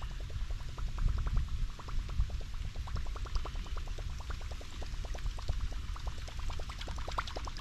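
Water gurgling and plopping in a quick, irregular patter of small splashes, over a low rumble.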